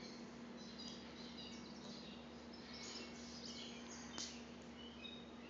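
Faint outdoor ambience: scattered short high bird chirps over a low steady hum.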